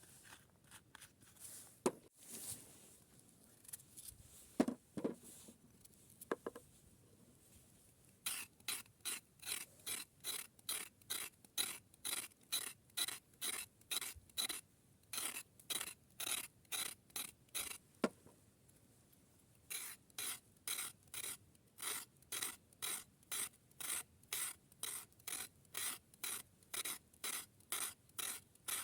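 Repeated hand-worked rasping strokes, about two a second, pausing for a couple of seconds and then resuming, after a few scattered knocks and light rubbing.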